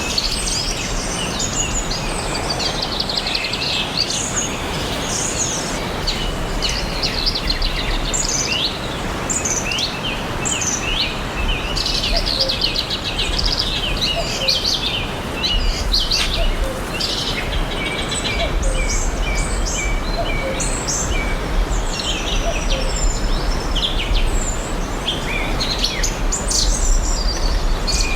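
Several forest birds chirping and singing, many short rising and falling chirps and trills overlapping throughout, over a steady background hiss and low rumble.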